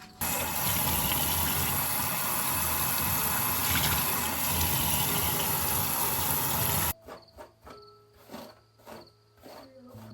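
Running water, a strong steady rush that starts and cuts off abruptly after about seven seconds, followed by soft background music.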